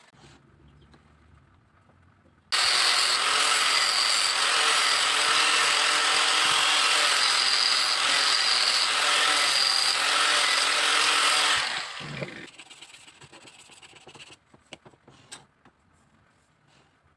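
A power tool working bamboo runs steadily for about nine seconds, starting abruptly and then dying away, followed by a few light knocks.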